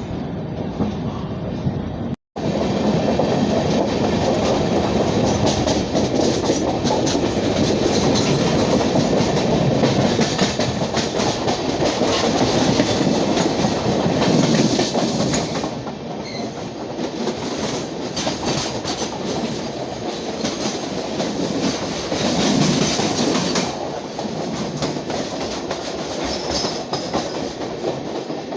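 Indian Railways LHB passenger train running on the track: a steady rumble of wheels on rails with a fast run of clicks. It cuts out for an instant about two seconds in, and gets quieter about halfway through and again near the end.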